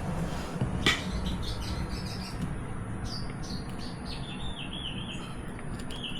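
Small birds chirping in short calls, over a steady low hum, with a single sharp click about a second in.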